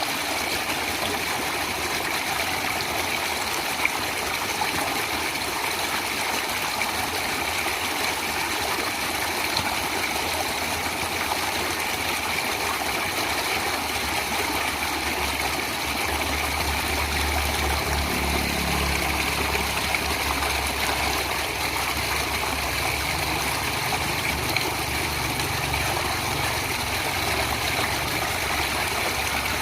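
Running water, a stream flowing with a dense, steady rush. A little past the middle a low rumble comes in under it for about ten seconds, then fades.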